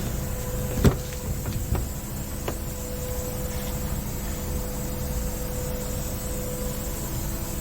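Scania R650's V8 diesel engine idling with a steady low rumble and a faint steady whine. About a second in comes a sharp click or knock, followed by two fainter clicks.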